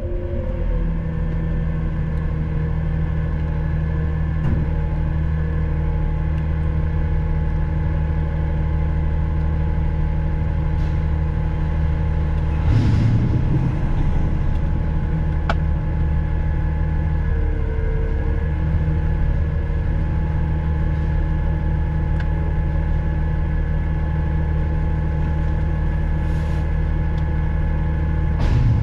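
Front-load garbage truck's engine running with a steady drone. There is a brief louder noise about 13 seconds in and another near the end.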